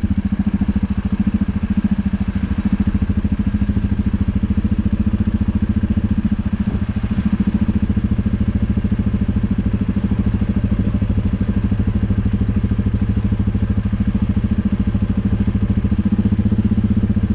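UTB Universal 650 tractor's four-cylinder diesel engine running steadily, a dense even knock of firing pulses with a strong low drone.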